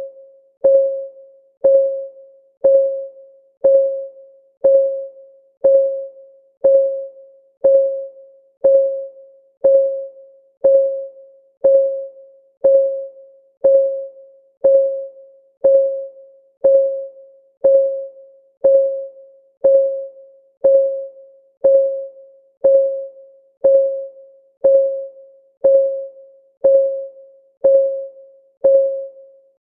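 Clock-ticking sound effect: one short, pitched tick each second, evenly spaced, each fading quickly.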